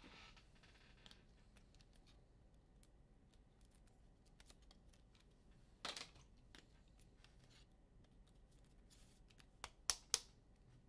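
Near silence with faint handling of trading cards and packs: a brief scrape about six seconds in and a few sharp clicks near the end.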